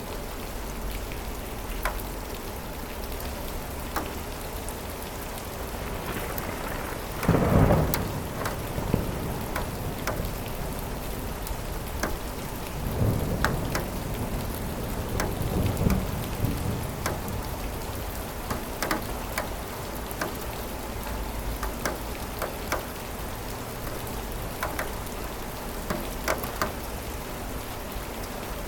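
Steady rain falling, with sharp individual drop impacts scattered through it. Thunder cracks loudly about seven seconds in, and a longer rumble of thunder rolls about thirteen to seventeen seconds in.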